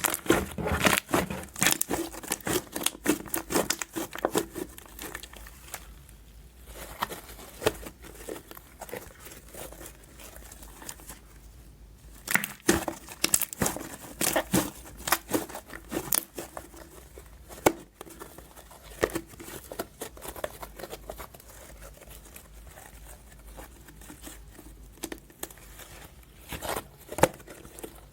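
Fluffy soap slime being squished and pulled by hand, making irregular sticky crackling and popping clicks, dense at first, thinning out in the middle and picking up again in flurries.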